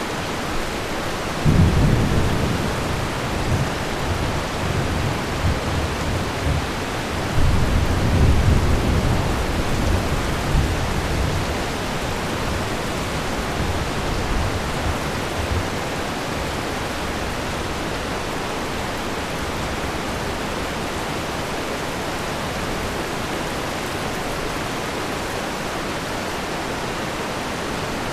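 Thunderstorm: steady rain with two rolls of thunder, the first about a second and a half in and the second about seven seconds in. The rumbling dies away by about halfway through, leaving rain alone.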